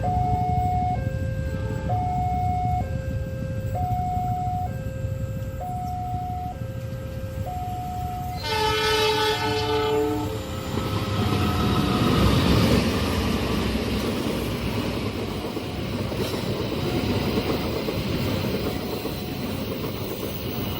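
Level crossing warning signal sounding an alternating two-note tone, switching about once a second. About halfway through, a train horn blasts for about two seconds. The train then passes with a loud rush of wheel and rail noise, while the crossing signal continues faintly.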